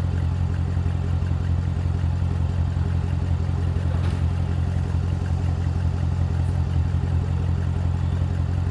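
Chevrolet Corvette C7's V8 idling steadily, some minutes after a cold start following a week parked.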